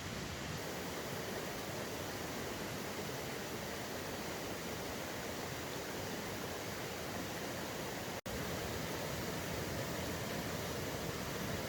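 A river rushing steadily: an even wash of water noise. About eight seconds in, the sound cuts out for an instant and then resumes.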